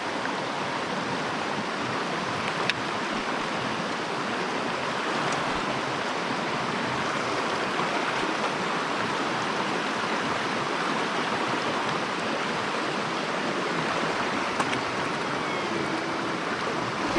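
Mountain stream water running over rocks, a steady even rush.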